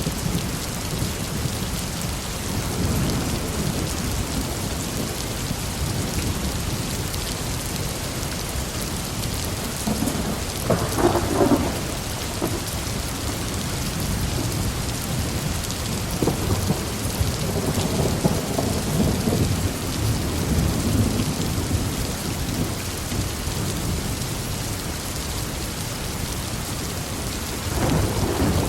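Heavy rain falling steadily with rolling thunder; a sharp crackling thunderclap about ten seconds in is the loudest moment, with longer low rumbles rolling through the middle and another starting near the end.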